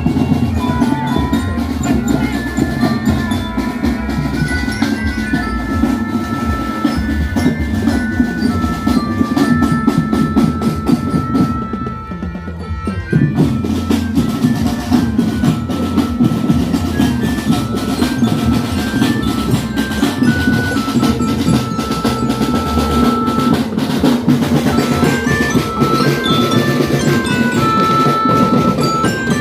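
A percussion band playing: a melody of ringing notes on metal mallet instruments over a dense beat of drums with snare rolls. The sound briefly goes dull and thin a little before the middle.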